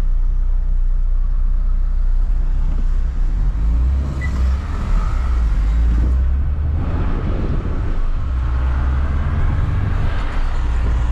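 A small car's engine and road noise inside the cabin as it pulls away from a standstill and accelerates. The low engine drone drops briefly about six seconds in, at a gear change.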